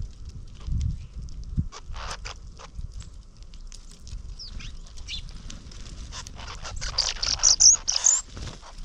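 Small backyard birds chirping and calling in short high notes, with a busier burst of high calls near the end, over a steady low rumble.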